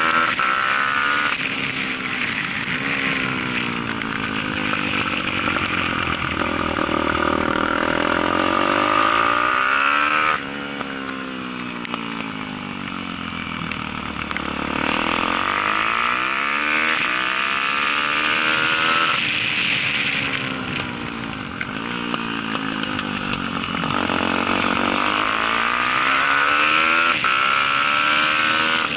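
Daytona 190 four-stroke single-cylinder pit bike engine at race pace, revving up hard and then dropping away again and again as the rider drives out of corners and backs off into them, with the pitch falling suddenly each time the throttle shuts. Wind noise rushes over it throughout.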